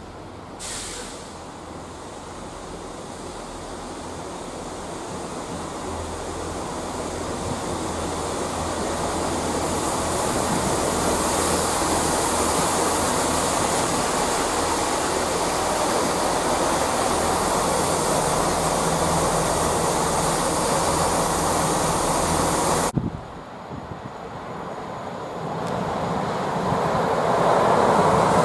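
Green GWR diesel multiple unit approaching and running past through the station, its engine drone and wheel noise growing steadily louder. The sound breaks off about 23 seconds in, and a second train, a yellow Network Rail test train, is then heard approaching, loudest near the end.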